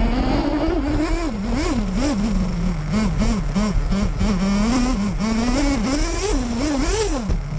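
Nitro RC car's small two-stroke glow engine, heard from a camera on board, revving up and falling back over and over in quick throttle blips as it is driven, with rumble from the ground and wind underneath.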